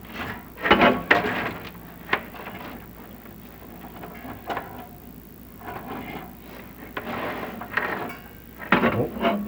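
Irregular scraping and short knocks from a chimney inspection camera and its push cable being worked in a masonry flue, with a faint steady hum underneath.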